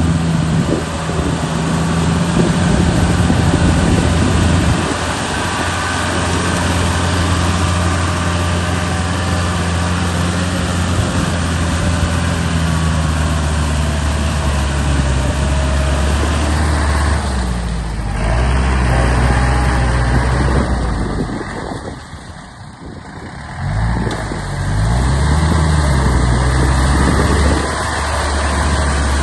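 Tractor engine running steadily under load in deep mud. About three-quarters of the way through it drops away for a couple of seconds, then comes back with its pitch rising and falling before it settles.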